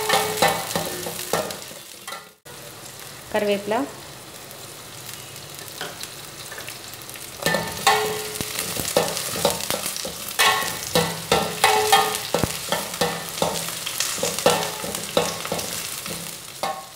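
Small onions and whole spices sizzling in hot oil in a stainless steel pan, stirred with a metal slotted spatula that scrapes and clicks against the pan. The sizzle and scraping get louder and busier about halfway through, once curry leaves and green chillies are in the pan.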